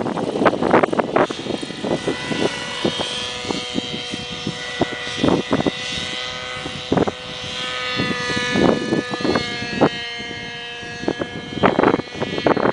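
Radio-controlled Shuttle model helicopter in flight, its engine and rotor giving a steady whine with several pitches. Strong gusty wind buffets the microphone in repeated bursts, loudest near the start and near the end.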